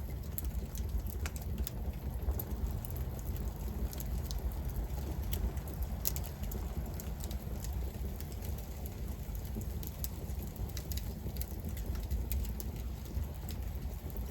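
Campfire burning, with irregular sharp crackles and pops from the wood over a low steady rumble.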